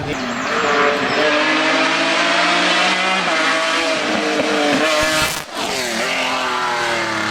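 Hill-climb race car's engine running hard, its pitch rising and falling with gear changes, with a brief break in the sound about five and a half seconds in.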